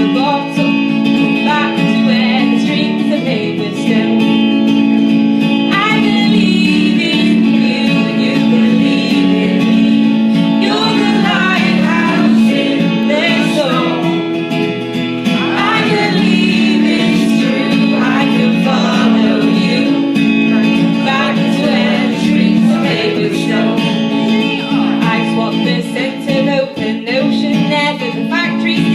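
Woman singing a song with guitar accompaniment.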